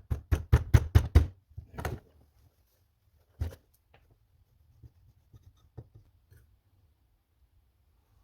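Rapid knocking on an old cast carburetor body being struck to free a seized part: a quick run of about four sharp knocks a second, then two single knocks about 2 s and 3.5 s in, followed by faint light clicks of parts being handled.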